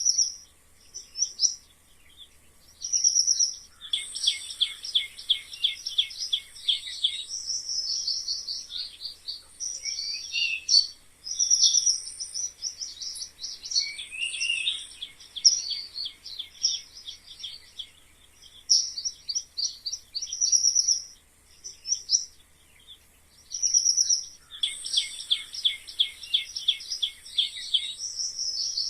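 Mice squeaking: high-pitched chirping squeaks in short groups with brief pauses, and two longer runs of rapid squeaks, one about four seconds in and one near the end.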